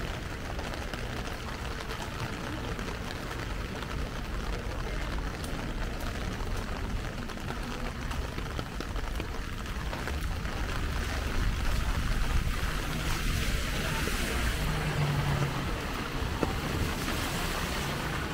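Heavy rain falling steadily, a little louder from about twelve seconds in, with a brief low hum near the end.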